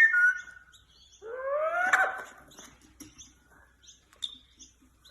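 Pet parrot calling: a short call trails off at the start, then one call rising in pitch about a second in, lasting about a second, followed by faint chirps and clicks.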